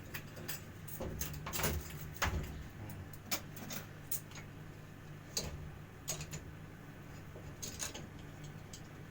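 Scattered clicks and light knocks from handling plumbing pipe and fittings while a faucet is being fitted, over a steady low hum.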